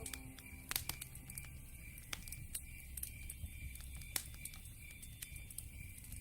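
Open wood fire crackling, with irregular sharp pops, a few louder ones about a second in and past the middle, over a low rumble. A faint high chirp repeats about three times a second behind it.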